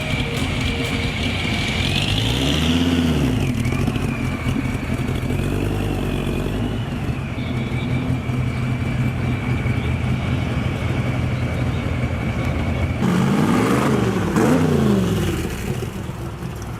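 Car engine running, revved up and back down about two seconds in and again near the end, over a steady high whine.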